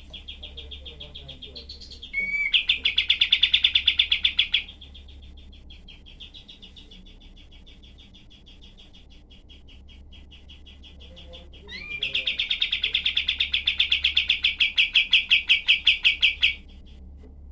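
Kapas tembak songbird singing rapid trills of sharp, closely spaced notes. Two loud, fast bursts, one a couple of seconds in and a longer one in the second half, with softer trilling between them.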